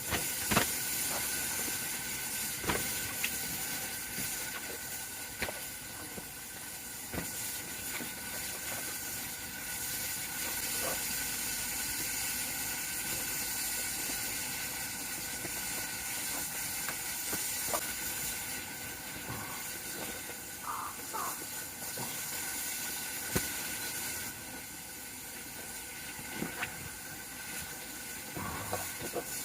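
Wood campfire crackling: a steady hiss with irregular sharp pops and snaps.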